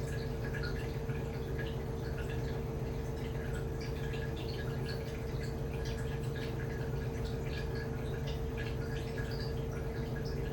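Samsung Wobble 14 kg top-load washing machine running with a comforter inside: water drips and splashes in the drum over a steady hum.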